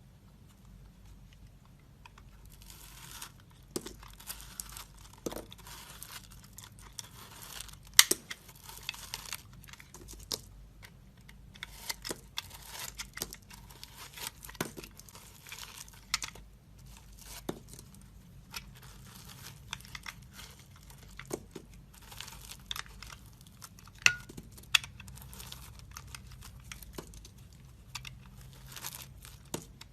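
Knife carving a bar of soap: repeated scraping, cutting strokes of a second or two each, starting about two seconds in, with sharp clicks among them. The loudest clicks come about 8 seconds in and again about 24 seconds in.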